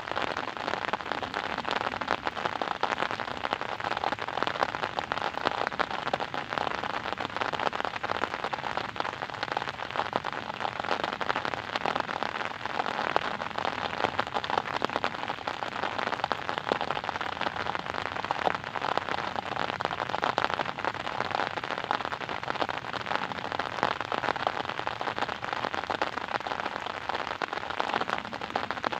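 Steady rain pattering on a surface, a dense hiss of many small drop ticks.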